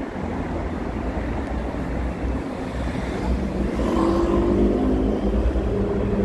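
Vehicle engine and road noise, a steady low rumble; about halfway through, a steadier low engine hum with overtones comes in.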